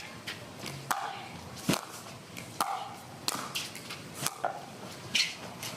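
Pickleball rally: paddles striking a plastic pickleball back and forth, each hit a sharp pop coming about once a second, with fainter ticks in between.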